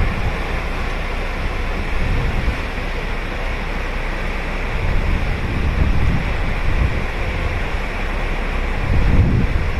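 Ocean surf breaking and washing ashore in a steady rush, with low rumbling swells of wind on the microphone about halfway through and again near the end.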